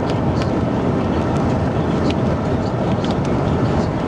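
Hail and heavy rain pelting a vehicle: a loud, steady, dense rumble with scattered irregular sharp ticks of stones striking.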